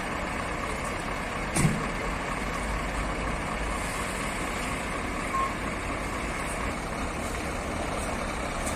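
Scania trucks' engines running with a steady low rumble, broken by a sharp knock about a second and a half in and a brief single beep about five seconds in.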